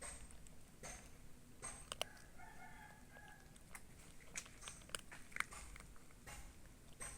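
A cat eating, with faint, irregular crunching and clicking bites throughout. A short pitched animal call sounds about two and a half seconds in, lasting roughly a second.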